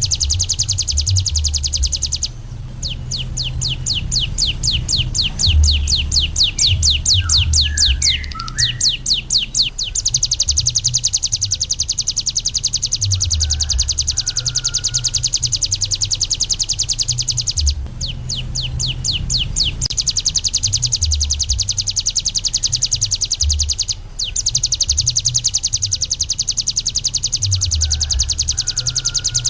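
Ciblek gunung (a prinia) singing a long, rapid, high-pitched chattering song of fast repeated notes, breaking into quicker trilled runs twice, with a low rumble underneath.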